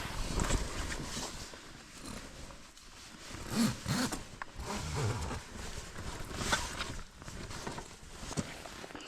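Irregular rustling and handling noises of camping gear being moved about, with a few short low sounds around four and five seconds in.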